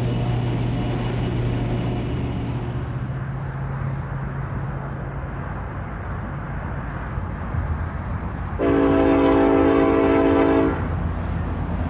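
Freight train's diesel locomotives rumbling, fading somewhat, then one long multi-note air horn blast of about two seconds, about three-quarters of the way in.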